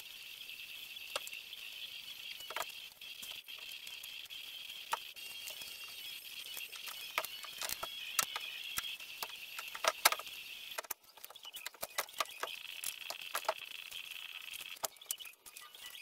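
Scattered light metal clicks and clinks from work on the engine installation, the loudest about ten seconds in. A steady high insect chirring runs behind them and stops for a moment about eleven seconds in.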